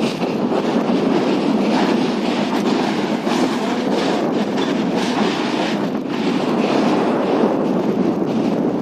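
Train rolling slowly across a steel railway bridge: a steady rumble of wheels on rails with scattered clickety-clack.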